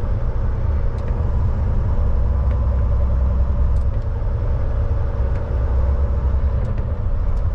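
Diesel semi-truck engine running with a steady low rumble, a few faint ticks scattered over it.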